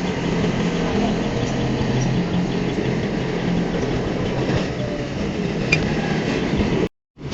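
Heavy earthmoving machinery working: a diesel engine running steadily under load, with occasional metallic clanks. The sound drops out abruptly for a moment near the end.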